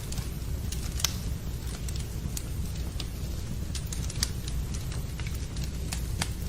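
Wood fire in a fireplace crackling, with scattered sharp pops over a steady low rumble, mixed with rain sound.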